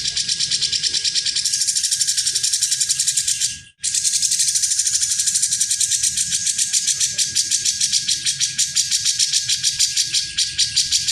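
Cucak jenggot (grey-cheeked bulbul) giving a fast, high rattling chatter, about five notes a second. It breaks off briefly about four seconds in, then resumes.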